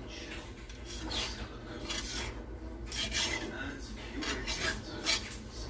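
Metal utensil scraping and cutting through baked macaroni and cheese against the Dutch oven, in several separate rasping strokes.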